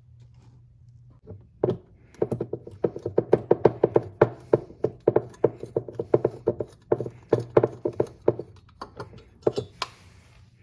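Ratchet wrench clicking in quick, even strokes, about four or five a second, as bolts are run in to loosely fit an exhaust pipe; it stops briefly near the end, then gives a few more clicks.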